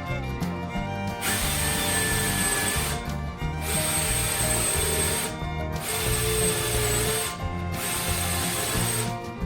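A power tool running in four bursts of about a second and a half each, with short pauses between them and a faint motor whine in each burst, over background music.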